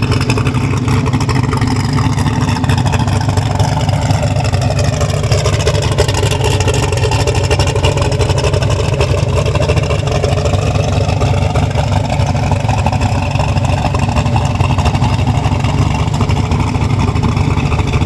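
Turbocharged truck engine running loud and steady, its pitch easing down and then climbing back up around the middle.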